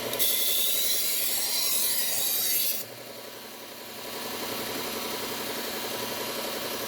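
Steel knife blade ground on the abrasive belt of a Bucktool belt sharpener running at slow speed. A loud high hiss lasts about two and a half seconds, then stops suddenly, leaving the steady hum of the running belt.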